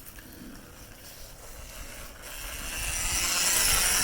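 Husqvarna EE 5 electric kids' dirt bike riding by, its motor and drivetrain growing louder from about halfway through as it comes closer.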